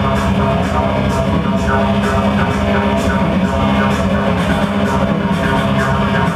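Electronic dance music from a DJ set, played loud in a club, with held bass tones under a steady beat of hi-hat ticks about twice a second.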